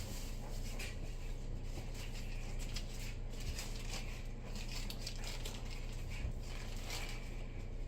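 Butter sizzling and crackling faintly in a heating pan, with irregular small crackles over a steady low hum.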